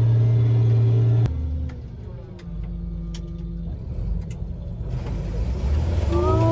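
Farm machinery engine running with a steady low drone that cuts off abruptly a little over a second in. A quieter stretch of lower rumble with a few clicks follows. Near the end a new steady tone slides up in pitch and holds.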